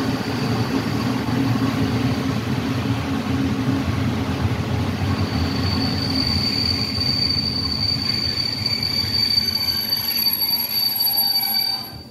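Passenger train rolling slowly into a station and braking, heard from aboard: a steady running rumble, joined about five seconds in by a steady high-pitched squeal that grows stronger. Near the end the sound drops off sharply as the train comes to a stop.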